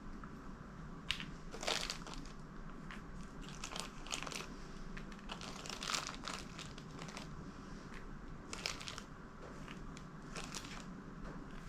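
Crinkling and rustling of packaging, in irregular short bursts, as a gasket kit's O-rings and seals are sorted by hand.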